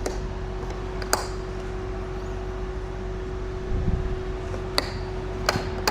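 Steady mechanical hum with one constant tone, like a fan or motor running, in an enclosed space; a few sharp clicks and knocks break in about a second in and near the end.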